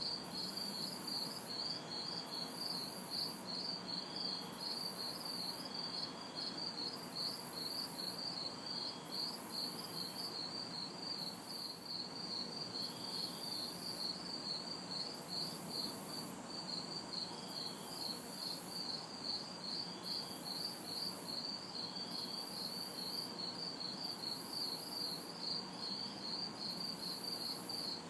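Crickets chirping in a steady, fast, even rhythm, with another insect calling in very high bursts about once a second, over a faint even hiss of distant city traffic.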